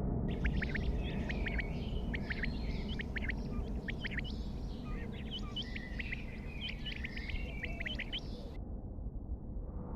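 Many quick bird chirps and calls, overlapping, that stop about a second before the end, over a steady low rumble.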